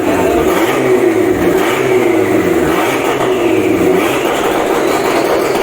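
A car engine being revved over and over, its pitch rising and falling several times.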